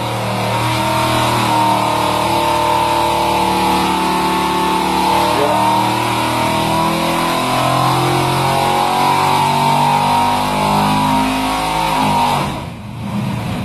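Dart Big M 565-cubic-inch big-block Chevy V8 with a solid roller cam, running hard on an engine dyno during a power run. It is loud, its note shifts up and down in steps, and it drops away near the end.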